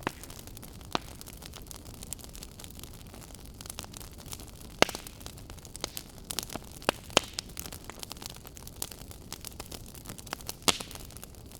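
Wood fire crackling in a fireplace: a steady hiss with irregular sharp pops and snaps, a few louder ones about five, seven and eleven seconds in.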